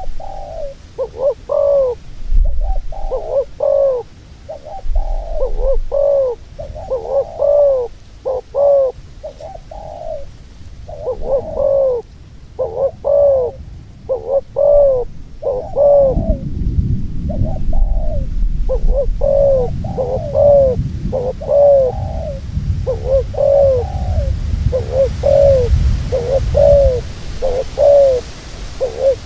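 Dove cooing over and over, short arched coos about two a second without a break. A low rumble joins about halfway through.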